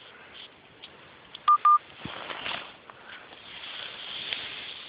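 Two short electronic beeps in quick succession, each a single steady tone, with a faint hiss around them.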